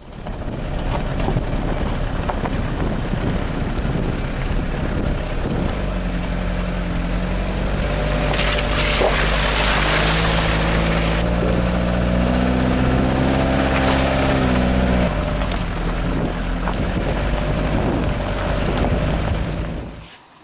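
An engine running under heavy wind noise on the microphone. A steady engine note rises out of the noise about six seconds in and fades near fifteen seconds, and everything cuts off just before the end.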